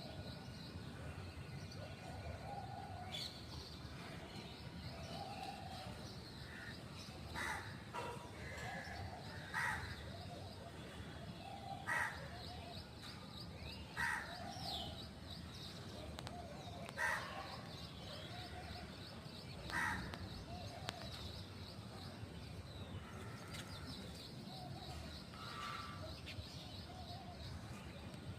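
A crow cawing about six times, each loud call a few seconds apart, over a steady background of smaller birds chirping and calling.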